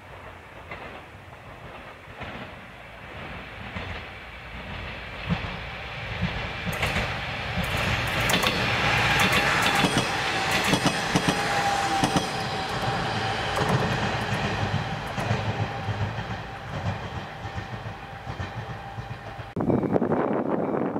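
KiHa 40-series diesel railcars passing: the rumble and wheel clatter over rail joints build over several seconds, are loudest about eight to twelve seconds in, then fade as the train moves off. Near the end the sound cuts suddenly to wind on the microphone.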